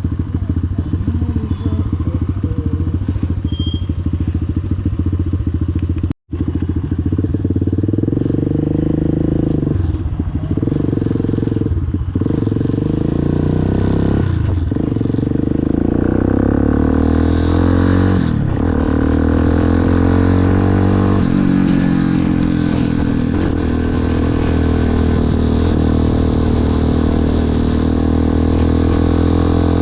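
Motorcycle engine running while riding, the revs climbing and dropping several times as the rider shifts gears and works the throttle. The sound cuts out completely for a split second about six seconds in.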